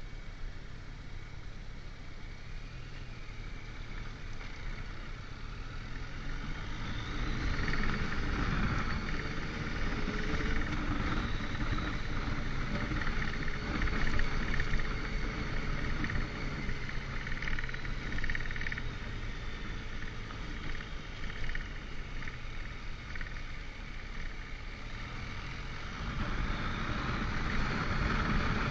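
Motorcycle engine running while riding, with wind and road noise. It grows louder with a rising engine note about seven seconds in, eases somewhat later on and picks up again near the end.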